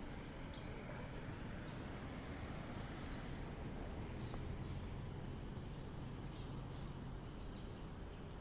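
Small birds calling in trees: short chirps that drop in pitch, repeated every second or so, over steady low background noise.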